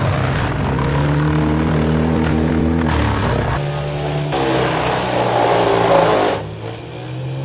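Large wood chipper's engine running steadily under load, with a stretch of loud, noisy grinding about halfway through as wood is fed in and chipped.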